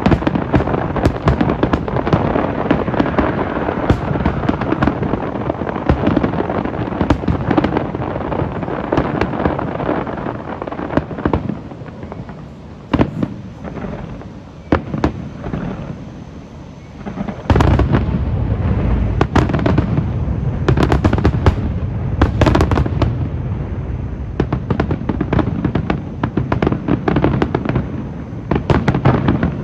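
Fireworks display: rapid overlapping bangs and crackle of aerial shells. About twelve seconds in it eases to a few scattered bursts, then a loud boom about seventeen seconds in starts a heavier barrage of booms and crackle.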